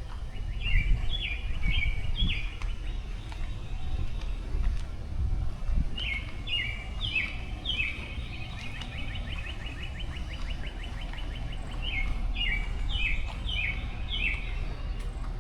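A songbird singing three bouts of repeated quick, falling chirped phrases, the middle bout running into a fast trill, over a steady low rumble.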